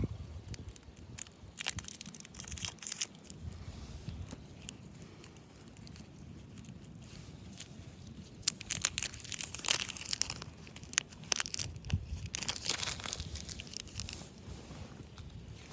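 Irregular crunching and crinkling, coming in clusters near the start and again through the second half, over a faint low rumble.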